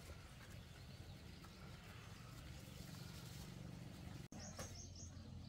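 Faint outdoor ambience with a low steady rumble. After a brief break about four seconds in, a small bird gives four quick high chirps.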